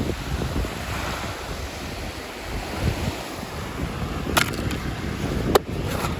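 Packaging handled close to the microphone: rough rustling and rubbing, with two sharp clicks about four and a half and five and a half seconds in.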